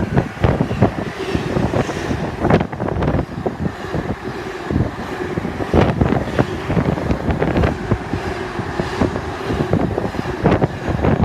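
Class 66-hauled freight train rolling past, its wagons rumbling and clanking with an irregular run of knocks from the wheels. Some wind buffets the microphone.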